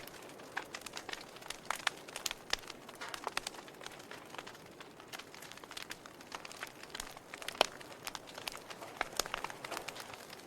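Wood fire in a fireplace crackling, with irregular sharp pops over a soft hiss; one pop about three-quarters of the way through is louder than the rest.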